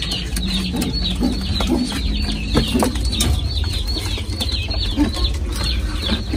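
Small birds chirping, a quick run of short high chirps repeated several times a second, over a low rumble with a few faint knocks.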